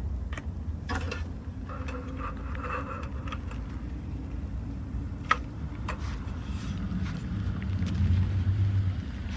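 Strong wind buffeting the microphone as a steady low rumble, with scattered clicks and knocks of camping gear being handled, a sharp click about five seconds in. The rumble grows louder near the end.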